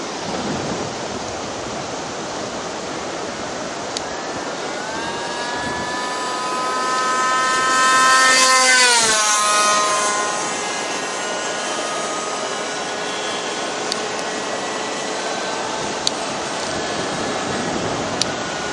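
Radio-controlled model airplane engine whining as the plane makes a pass: the whine grows louder, peaks about eight seconds in, drops sharply in pitch as the plane goes by, then fades.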